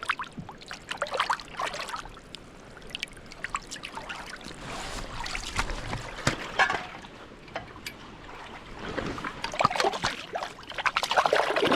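Fresh rockfish fillets being rinsed by hand in shallow seawater, with splashing and trickling in three bursts and scattered short clicks between them.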